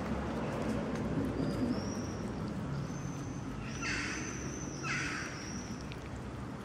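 A bird calling in thin, high whistled notes, one of them held for a couple of seconds, over a steady low background noise. Two short harsh hissing sounds come about four and five seconds in.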